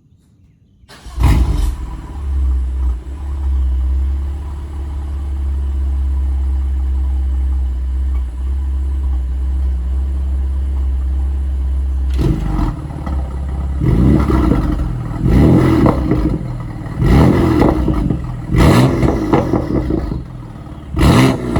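BMW M4 twin-turbo inline-six with an Akrapovic exhaust and X-pipe starting up about a second in with a loud flare, then idling with a steady low drone. From about halfway it is revved in about six short, sharp blips.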